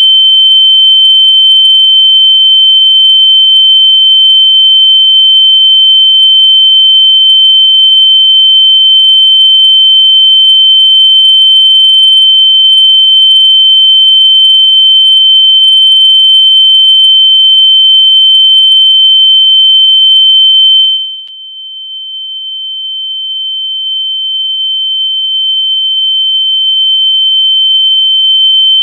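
Loud, steady, high-pitched electronic tone, a single pure pitch meant to be played through lost AirPods so they can be found. About two-thirds of the way through it drops sharply in volume, then slowly swells back to full loudness.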